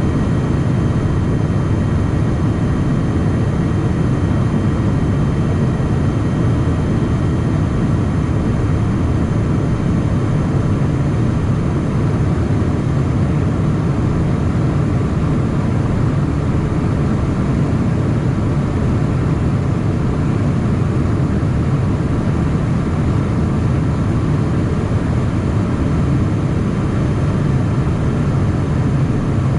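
Steady cabin noise inside a Cessna Citation Mustang light jet: the drone of its twin turbofans and the rush of air, unchanging, with faint steady high whines on top.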